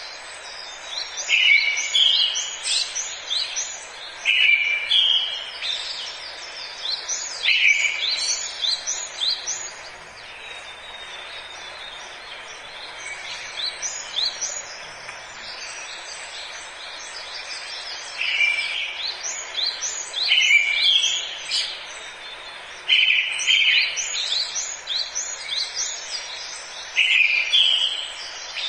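Forest songbird singing a repeated phrase, a short steady note followed by a quick run of higher chirps, about every two to three seconds. The song pauses for several seconds midway, over a steady background hiss.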